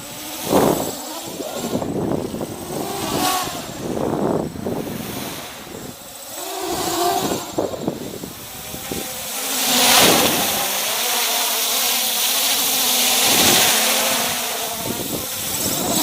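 MJX Bugs 3 quadcopter's brushless motors and propellers running on a 3-cell battery, the whine rising and falling with the throttle. It is loudest as it passes close about ten seconds in.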